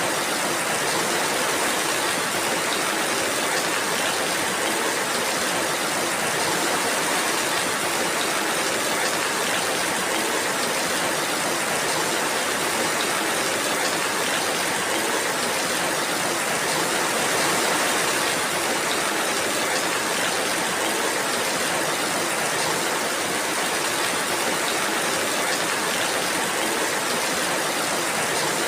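Steady rainfall: an even, dense hiss with a fine patter of drops, unchanging throughout.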